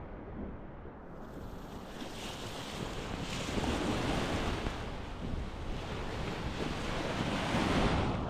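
Sea waves washing onto the beach in hissing surges, two swelling near the middle and near the end, with wind rumbling on the microphone.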